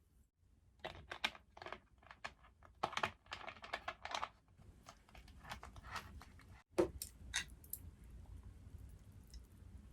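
Close-miked eating sounds: a dense run of crisp, crackly chewing starting about a second in and lasting about three and a half seconds, then quieter chewing with a few sharp clicks.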